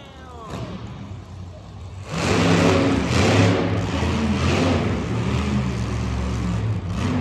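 Monster truck engine revving hard. It comes in suddenly about two seconds in after a quieter stretch, then holds loud with its pitch rising and falling.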